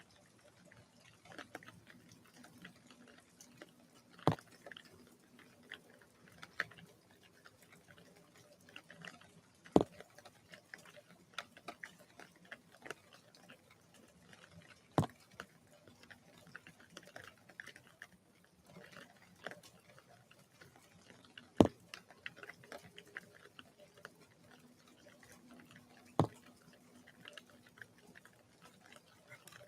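Raindrops dripping onto the bird feeder: a patter of small ticks with a single sharp, loud drip-tap every five or six seconds, five in all.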